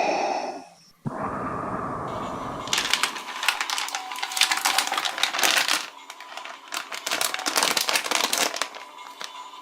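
Wrapper packaging crinkling and crackling as it is handled, in dense runs of crackles from about three to six seconds in and again near the end.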